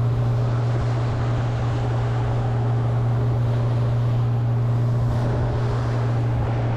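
Boat motor running at a steady speed, a constant low hum with wind and water noise rushing over it.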